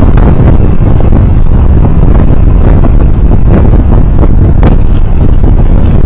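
Loud, steady wind rumble and road noise on the microphone of a camera riding on a moving vehicle, with a few brief knocks.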